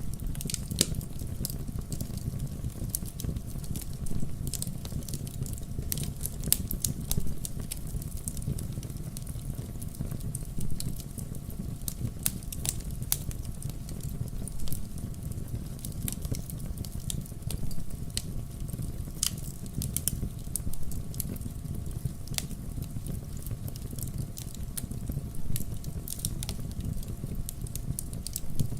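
Wood fire burning in a fireplace, crackling, with frequent sharp pops scattered irregularly over a steady low rumble of the flames.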